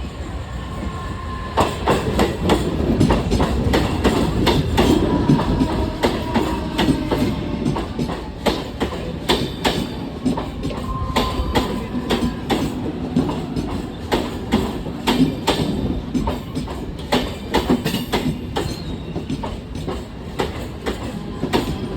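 Mumbai suburban EMU local train running past, its wheels clattering over rail joints in a rapid, uneven run of clacks that starts about a second and a half in.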